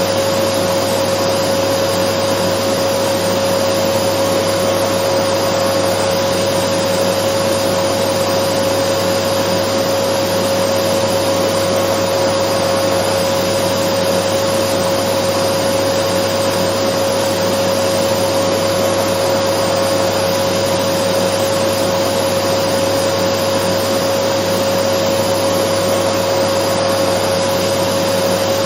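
Dyson vacuum cleaner running steadily: a continuous rushing noise with a steady whining hum, played unbroken as white noise to soothe a baby.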